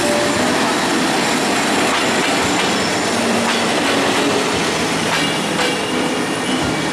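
Diesel locomotive and passenger coaches of a broad-gauge express train passing close by at speed: a loud, steady rumble of engine and wheels on rail, with thin squeals and occasional clicks as the wheels run over the rail joints.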